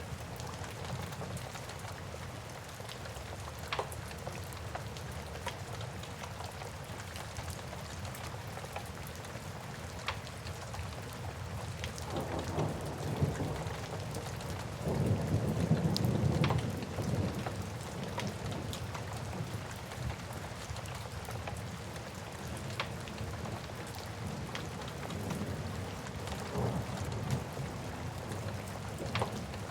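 Steady rain with a low roll of thunder that builds about halfway through and fades after a few seconds. A wood fire crackles throughout with scattered sharp pops.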